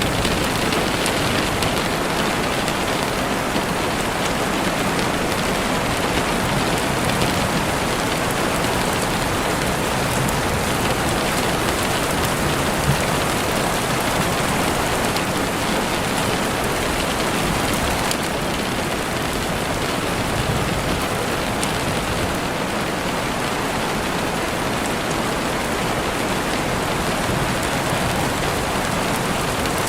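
Steady heavy rain on a window, a constant dense hiss with scattered drop ticks.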